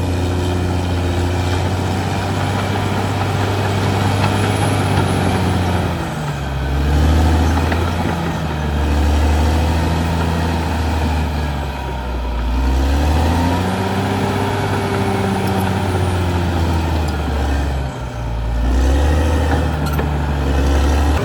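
Caterpillar D6R XL bulldozer's diesel engine running under load. Its pitch dips and recovers three times, at about six, twelve and eighteen seconds, as the engine lugs and picks up again.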